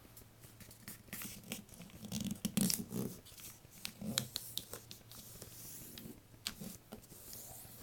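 A sheet of paper crinkling and rustling as it is folded down and creased flat by hand, in irregular crackles that are loudest about two to three seconds in, over a steady low hum.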